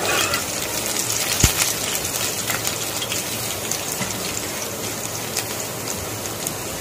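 Hot oil sizzling in a kadhai as chopped ginger, garlic and green chillies are sautéed, stirred with a steel spoon that clicks against the pan a few times in the first second and a half. The sizzle eases slightly toward the end.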